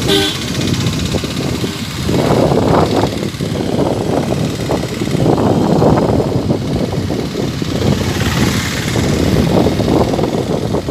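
Loud, continuous engine noise that surges unevenly, with a brief pitched tone right at the start.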